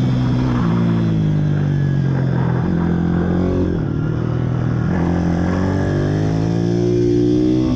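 Pit bike engines revving up and down as the bikes ride, the pitch rising and falling, with more than one engine heard at once.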